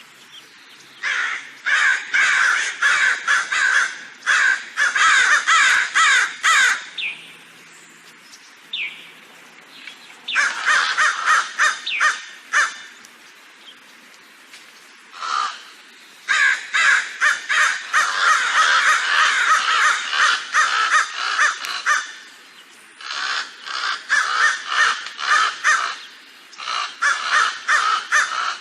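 Crows cawing in long bouts of rapid, overlapping calls, broken by several short pauses.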